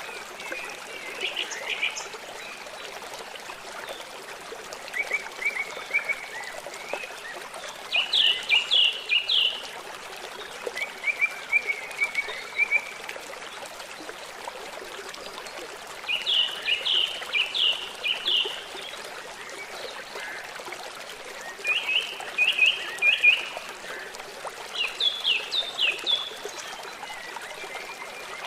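Songbirds singing over steady flowing water, a stream or small waterfall. The songs come as short phrases of quick down-slurred notes and brief trills, repeated every few seconds, the water running unbroken beneath them.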